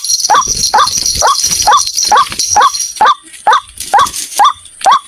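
White-breasted waterhen calling: a fast, even run of short, hoarse notes, a little more than two a second. A high steady hiss underneath stops about three seconds in.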